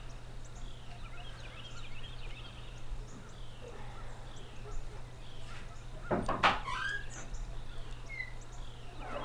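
Birds calling with short falling chirps, repeated every half second or so over a steady low hum. About six seconds in a louder, brief knock and warbling call stands out.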